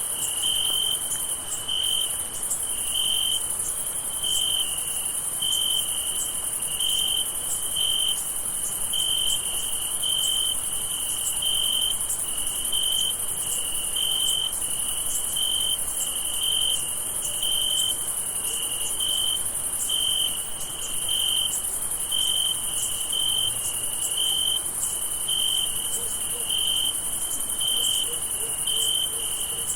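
Night chorus of crickets: one chirps in a steady slow rhythm, a little more than once a second, over a continuous high-pitched trill from many more.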